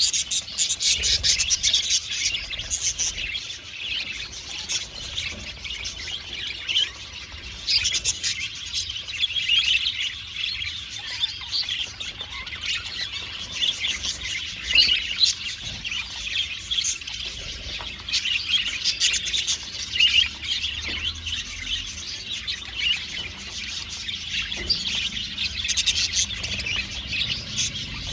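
Many budgerigars chattering and warbling together in dense, overlapping chirps that never stop.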